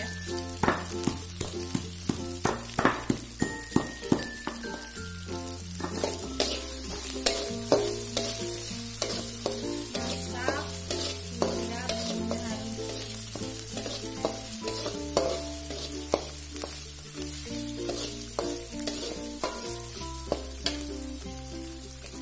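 Ground spice paste sizzling in hot oil in a metal wok while a metal spatula stirs and scrapes it, with sharp clacks of the spatula on the pan, most often in the first few seconds. The paste is being sautéed until fully cooked. Soft background music plays underneath.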